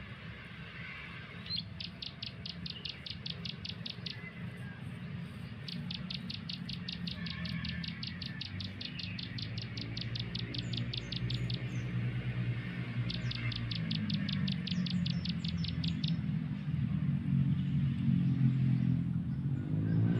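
Bird call trilling: three runs of sharp, evenly repeated high notes, about seven a second, each lasting a few seconds. Music fades in under it over the second half.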